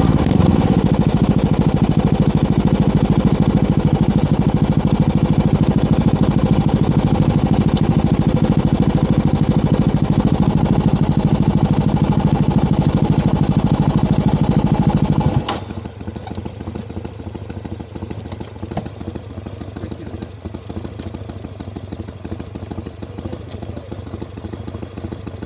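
Motorcycle engine running steadily at idle, without revving, its exhaust pulsing fast and evenly. About two-thirds of the way through the sound drops abruptly to a quieter, thinner engine note.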